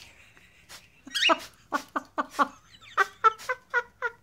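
Cockatiel calling in a quick run of short chirps, a handful in the first half and then about six evenly spaced ones near the end.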